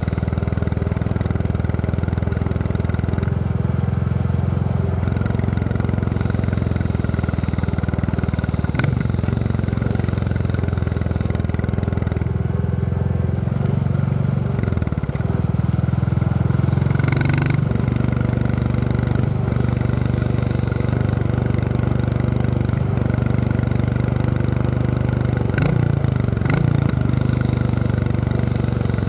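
Royal Enfield Classic 350's single-cylinder engine thumping along under way, its note shifting up and down several times as the throttle and gears change. A few short sharp clicks cut through it.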